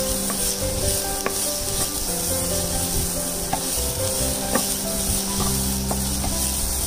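Chopped shallots and curry leaves sizzling in hot oil in a nonstick pan while a wooden spatula stirs them, with a few light taps of the spatula on the pan.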